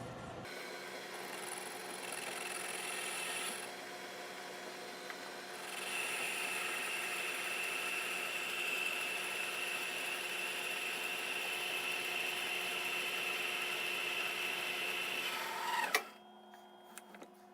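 Metal lathe running under power, turning a steel pin, with a steady whir. It grows louder in two stretches, the longer one carrying a high steady tone, then stops suddenly near the end.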